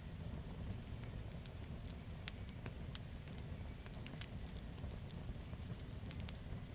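Campfire burning, with frequent irregular sharp crackles and pops from the wood over a steady low rumble.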